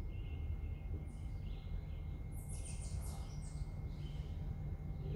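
Songbirds singing in woodland: scattered high chirps and, about two and a half seconds in, a quick run of high notes stepping down in pitch, over a steady low rumble.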